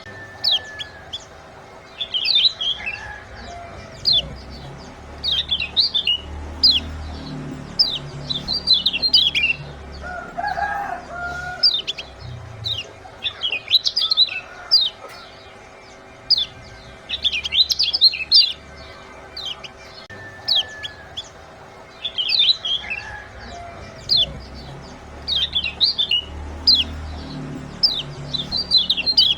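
Small songbirds chirping in quick clusters of short, sharp, high chirps every second or two: a 'ciak' chirping recording that bird keepers play to stir quiet birds into song. A few lower calls come in about ten seconds in and again near the end.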